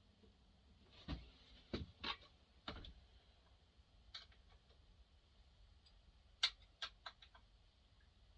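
Scattered sharp clicks and knocks of chainsaw parts being handled while a wrap handle is fitted: a quick run of them about a second in, a single one around four seconds, then another run a little after six seconds.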